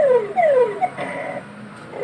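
Claw machine's electronic sound effects: short synthesized tones that each slide down in pitch, three in the first second, followed by a short buzzy tone.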